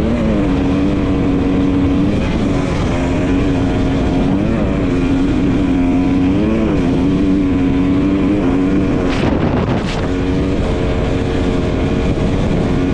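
Dirt bike engine running at a steady cruising pitch, rising and falling slightly with small throttle changes, over wind and road noise. The engine dips about nine seconds in, with two short sharp knocks.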